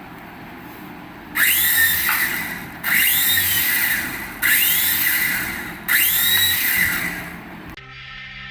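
Electronic sound effect from a battery-powered toy, played four times in a row: each is a burst of hiss with a whine that rises then falls away.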